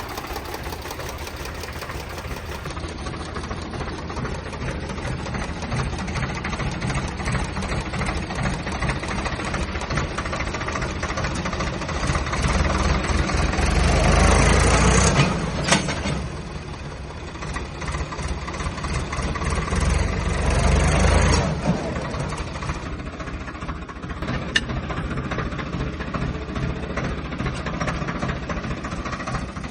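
Diesel tractor engine running, revving up and getting louder twice, about halfway through and again a few seconds later, with a sharp click just after the first rise.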